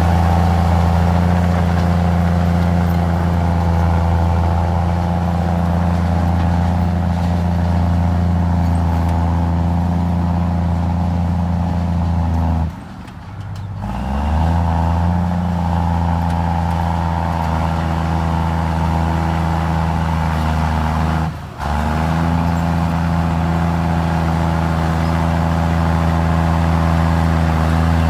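Komatsu D53E crawler bulldozer's diesel engine running steadily under load while the machine works. The sound cuts out abruptly twice, for about a second some 13 seconds in and briefly about 21 seconds in; the engine note climbs back after the first break.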